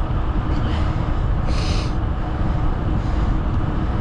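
Steady low wind rumble on the microphone of a moving bicycle, with a brief hiss about one and a half seconds in.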